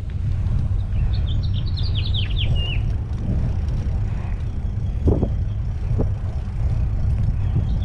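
Steady low rumble of wind and road noise during a bicycle ride, with a bird singing a quick series of falling chirps about a second in. Two short knocks come later.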